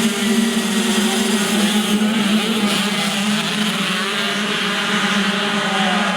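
Several motocross motorcycle engines running together, their pitches drifting up and down steadily with no pause.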